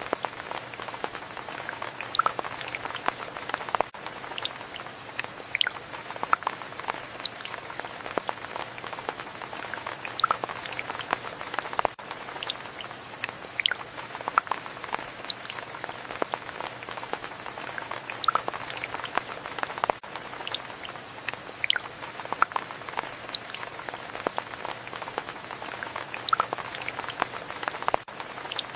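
Rain falling, with many separate drops and drips ticking sharply over a steady patter.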